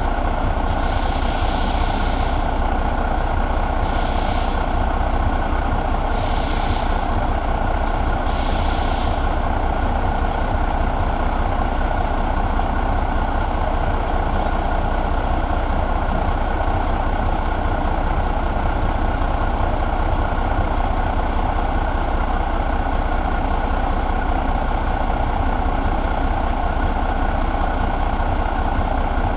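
1988 Renault truck engine assembly running steadily. Four short hisses come in the first nine seconds, about two seconds apart.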